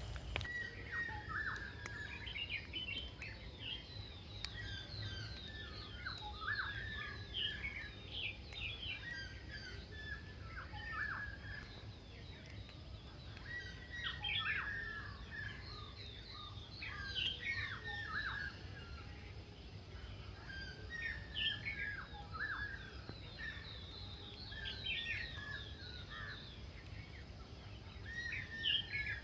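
Wild birds calling in a forest: short, quick sweeping calls from several birds, clustered every few seconds and overlapping, over a low steady rumble.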